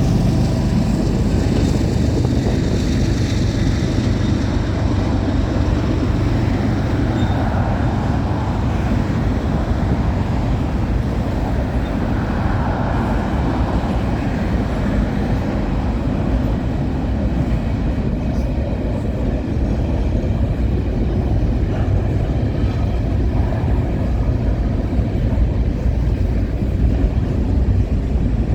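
Freight train of grain hopper cars rolling steadily past, a continuous rumble of steel wheels on the rails.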